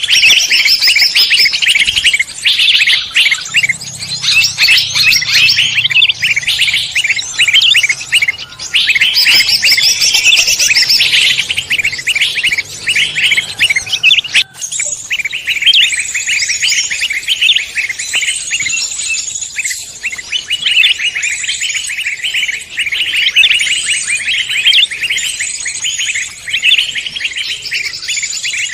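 Dense, continuous chirping and trilling of several songbirds calling at once, a compiled forest-songbird lure recording. It breaks off abruptly about halfway through, then similar rapid chirping resumes.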